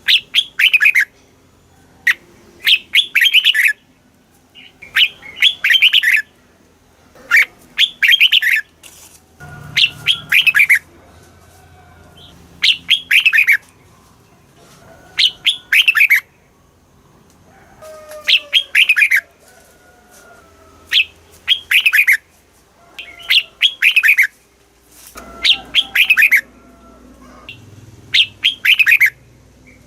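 Red-whiskered bulbul singing: short phrases of a few quick falling whistled notes, repeated about every two to three seconds.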